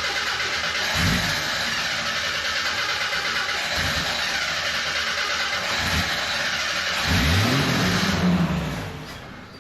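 1987 Jeep Wrangler YJ engine running just after its first start on choke, blipped up in short revs a few times and once longer near the end, then dying away as it stalls.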